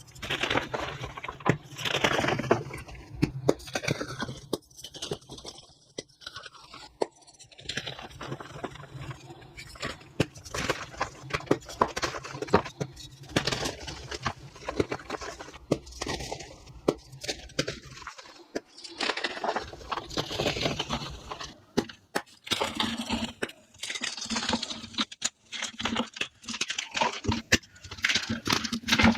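Reformed gym chalk being crushed and crumbled, a dense run of crunches and crackles with a short lull a little past halfway, played back at double speed.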